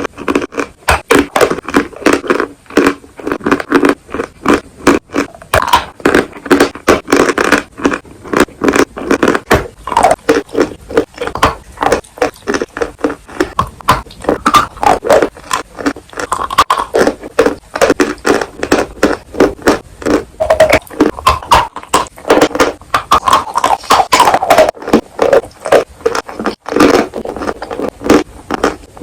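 Someone biting and chewing pieces of crunchy edible chalk and clay, close to the microphone: a fast, continuous run of sharp crunches and crackles, several a second.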